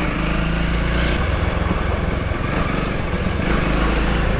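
Honda CRF300L dirt bike's single-cylinder four-stroke engine running steadily as it is ridden along a trail, with a rushing noise over it.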